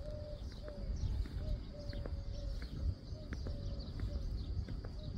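Birds calling: a string of short, low hooting notes, some held level and some dropping slightly at the end, with thin high chirps over a low rumble.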